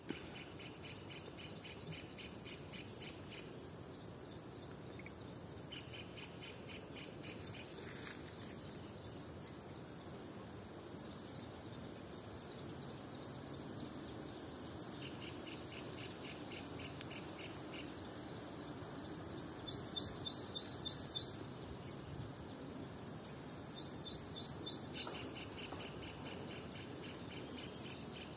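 Wild birdsong and insects: a bird twice gives a quick run of six or seven sharp rising notes, the loudest sound. Between the runs come repeated spells of fast, even chirping, over a steady high-pitched hum.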